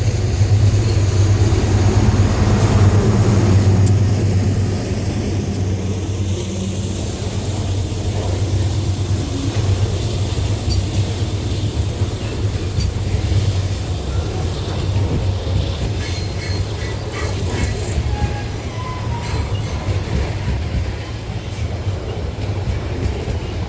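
Loaded grain freight train rolling past: a steady low rumble of wagons on the rails, loudest in the first few seconds, with occasional wheel clicks and faint squeal from the wheels.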